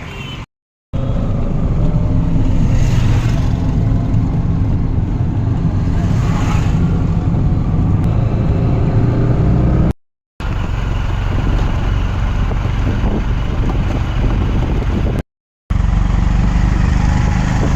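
Auto-rickshaw's small engine running steadily during a ride, with road noise. The sound cuts out briefly three times.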